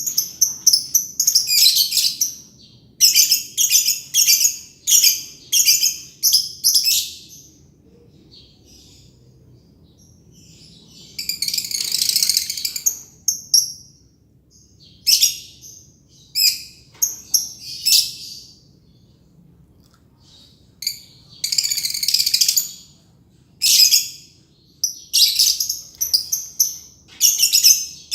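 Green lovebird chattering in its long 'ngekek' song: runs of shrill, rapid, high-pitched chirps with short pauses between them. There is a longer unbroken burst near the middle and another about three-quarters of the way through.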